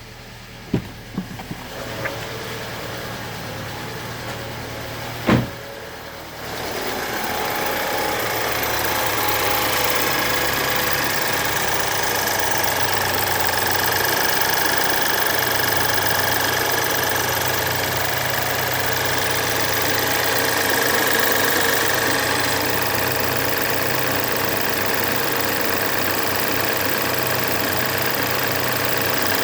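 BMW N20 2.0-litre turbocharged four-cylinder engine idling with timing chain noise, from a chain due for replacement. A few clicks in the first two seconds and one sharp knock about five seconds in; about six seconds in the engine sound grows louder and then holds steady.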